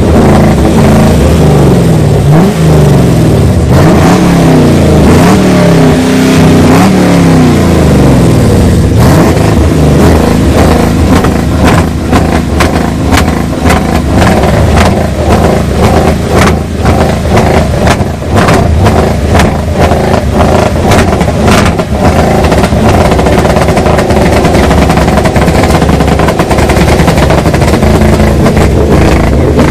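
Car engine revved hard several times, its pitch rising and falling quickly, then a long run of rapid sharp cracks and pops over the running engine.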